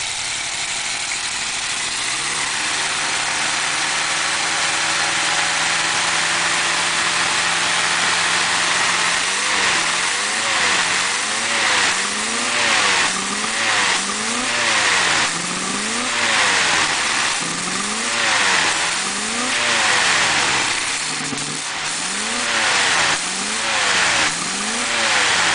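1954 Ford's 292 V8 running cold with the choke pulled all the way out. It holds a fast idle that slowly climbs, then from about nine seconds in it is revved up and down over and over, roughly once every second and a half. It runs a little rich, with the carburetor a bit full from the full choke.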